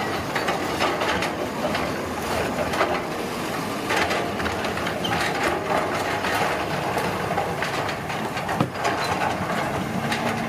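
Heavy road-construction machinery at work: a steady, dense clatter of knocks and scraping, with no pause.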